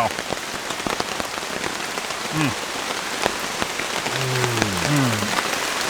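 Steady rain falling, with sharp ticks of single drops hitting close by. A man's voice gives short wordless murmurs about two and a half seconds in and again near the end.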